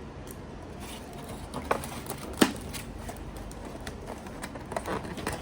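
Scattered clicks and taps from eating and handling the food, the sharpest about two and a half seconds in and a few more near the end, over a steady low rumble.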